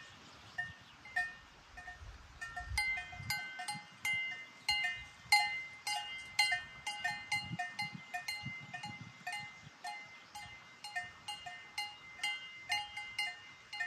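Several cowbells clanking irregularly, a few strikes a second, each ringing at its own pitch. They grow busier after about three seconds, as when bells hang on moving livestock.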